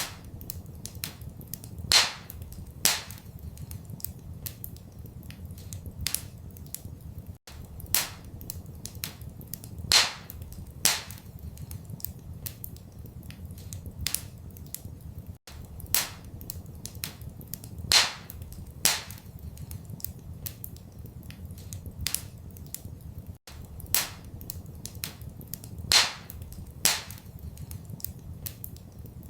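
Wood fire in a fireplace crackling, with frequent small pops and a loud snap about every eight seconds over a low steady rumble. The same short stretch of sound repeats as a loop about every eight seconds.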